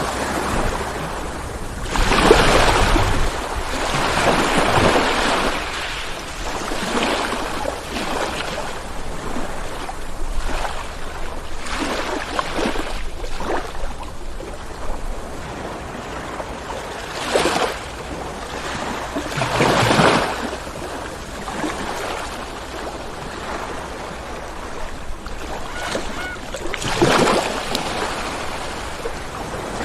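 Ocean waves breaking and washing onto shore: a steady wash of surf with a louder surge every few seconds as each wave breaks, the strongest about two seconds in and near the end.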